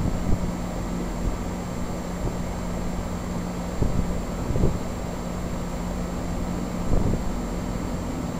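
Two Janitrol 13 SEER heat pump outdoor units running steadily after startup, with a constant compressor hum and condenser fan noise. A few brief low bumps rise over the hum.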